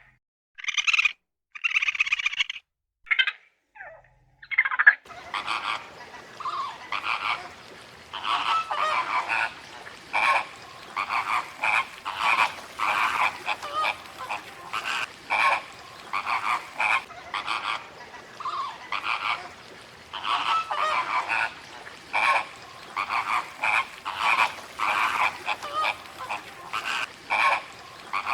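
Frogs croaking: a few separate calls with silent gaps for the first five seconds, then a continuous chorus of many overlapping, rapidly repeated calls.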